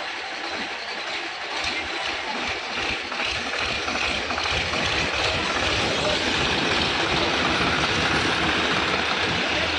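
Diesel tractor engine running steadily, getting louder from about four seconds in.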